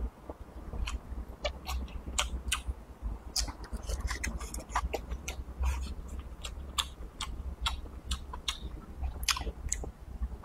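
Close-miked mouth sounds of a man chewing stewed lamb and glass noodles with rice: irregular short smacks and clicks, several a second, over a low steady hum.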